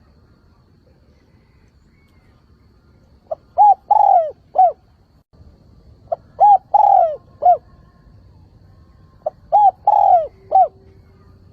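Decoy spotted dove cooing its advertising song, a call that draws wild doves in. Three phrases about three seconds apart begin a few seconds in. Each phrase is a short lead note, two quick coos, a longer drawn-out falling coo and a final coo.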